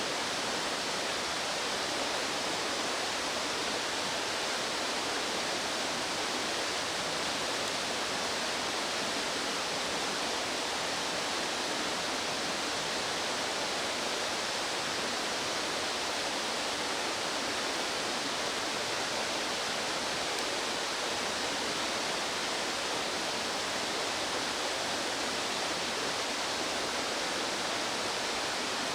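Mountain stream water rushing steadily, an even hiss with no bird calls heard above it.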